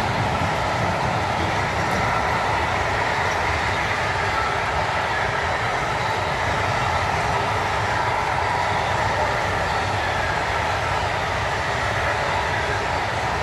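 Freight train of wagons loaded with semitrailers rolling steadily past, a continuous rumble of wheels on the rails.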